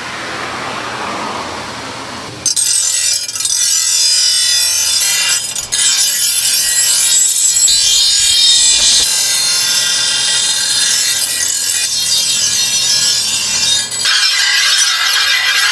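Harsh, steady scraping and rasping of a tool working a workpiece, as in sawing, filing or sanding. It starts abruptly about two and a half seconds in, after a softer even noise.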